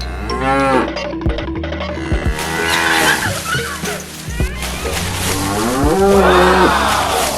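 Three drawn-out animal calls, each rising and then falling in pitch, over background music.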